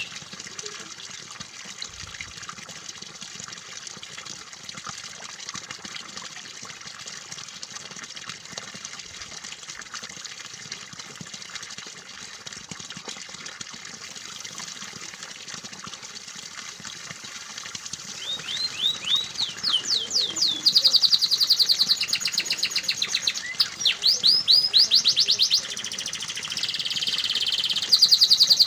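Steady trickling water for about the first two-thirds. Then a domestic canary starts singing loudly, in rapid trills and quick runs of upward-sweeping notes.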